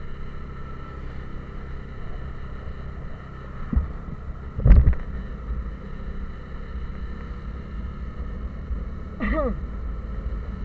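Vehicle on the move, its engine and road rumble steady. Two sudden thumps come just before the middle, the second louder, like the vehicle jolting over bumps in the road.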